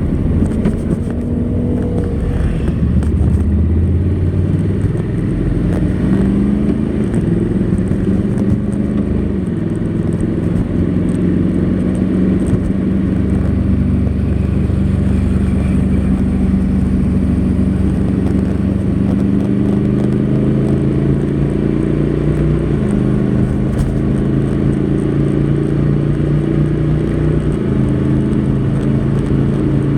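Honda NC700X motorcycle's 670 cc parallel-twin engine running through its stock exhaust under way. The engine note holds steady for stretches and shifts up and down in pitch every few seconds.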